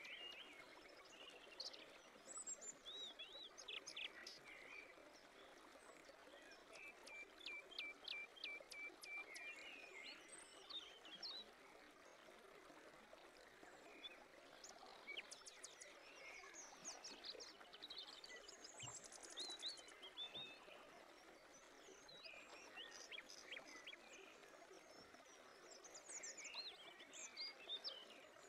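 Faint birds chirping, scattered short calls and trills with a quick run of repeated notes about eight seconds in, over a steady low hiss.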